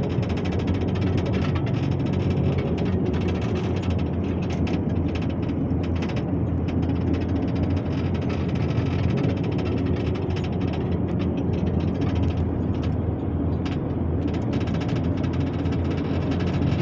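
A small tourist ride vehicle running steadily, heard from on board: a continuous low engine hum and rolling noise, with scattered light knocks.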